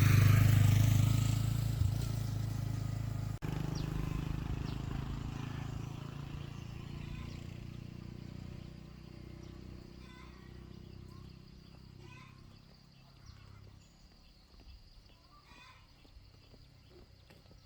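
An engine running and fading away steadily over about twelve seconds, with a brief dropout a few seconds in. Faint short chirps or ticks are left near the end.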